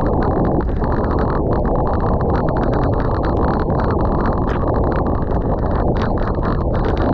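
Strong gusting wind buffeting the microphone: a loud, steady low rumble with rapid irregular crackling on top.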